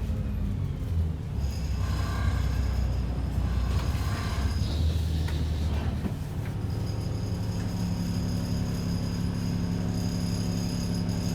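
ADL Enviro 400 double-decker bus heard from inside the cabin, its diesel engine running with a heavy low rumble. About six seconds in, the rumble drops to a steadier engine hum with a faint high whine above it.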